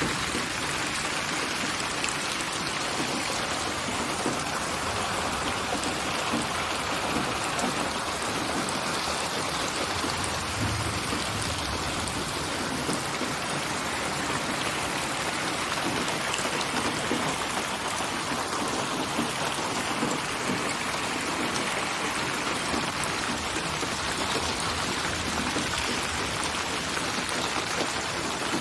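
Steady, even rain falling, a dense patter of drops. It is a computer-built rain soundscape assembled from many rain recordings and spatialized with 8D/HRTF surround. A brief low rumble comes about ten seconds in.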